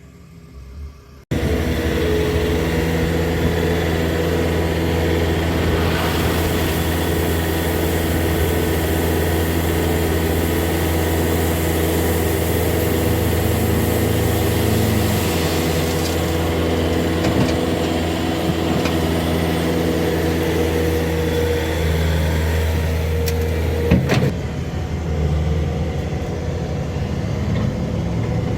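Ram 3500 dually pickup's engine running at a steady idle, starting abruptly about a second in. A sharp knock about 24 seconds in, after which the engine sound continues a little lower.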